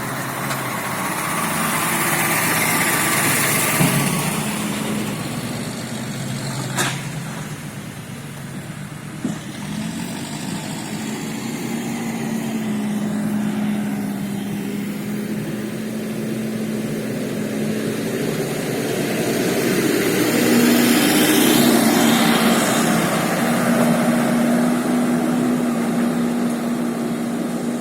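KamAZ diesel truck driving past on a forest track, its engine hum swelling up about three seconds in and again, loudest, about two-thirds of the way through.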